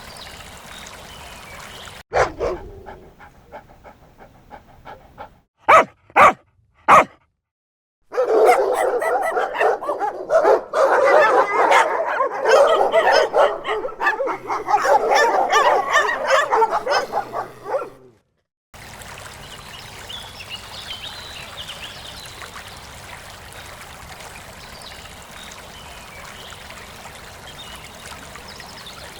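Dogs barking and yipping: three short sharp barks in quick succession, then about ten seconds of busy overlapping yapping and whining. Before and after, a steady rushing like running water.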